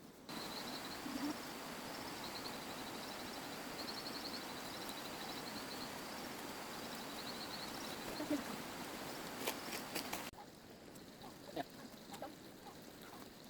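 Outdoor ambience: an even rushing hiss with a high chirping trill repeating over it, cutting off abruptly about ten seconds in.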